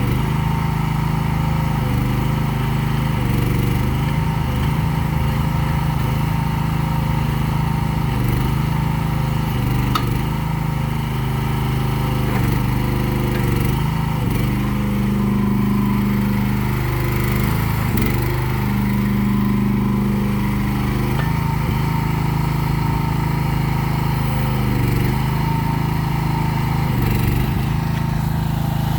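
Small gasoline engine of a MIVA VA13 mini excavator running steadily, its note dipping briefly several times as load comes on and off.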